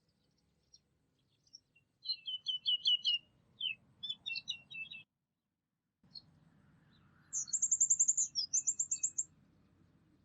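Songbirds singing: a quick run of chirping notes, then after a short break a high, fast trill of repeated notes, over a faint low background hiss.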